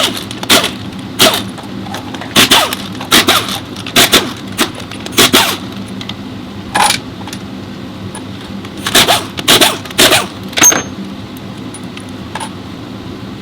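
Metal parts and hand tools clinking and knocking while a Powertech 8-speed automatic transmission is worked on. The sharp metallic knocks come in irregular clusters, thin out about halfway, and stop about eleven seconds in, over a steady low hum.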